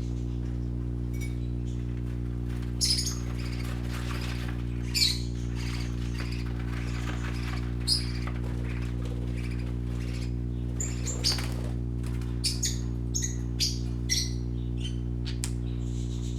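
Young parakeets chirping and squawking in short, scattered calls, which come more thickly in the second half. A steady low hum runs underneath.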